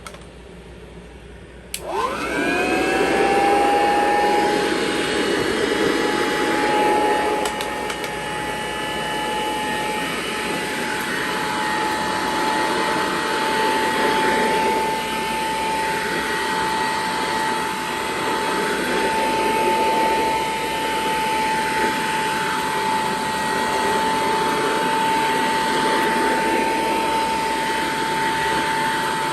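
1935 Kirby Model C vacuum cleaner switched on with a click about two seconds in. Its motor whines rapidly up to speed, then runs steadily with a high whine over a rushing of air, swelling and dipping slightly in level as it works the carpet.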